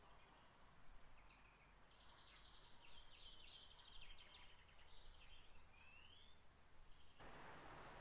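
Faint birdsong: short chirps and twittering, with one rising whistle about six seconds in, over quiet room tone. A soft, even hiss comes in about seven seconds in.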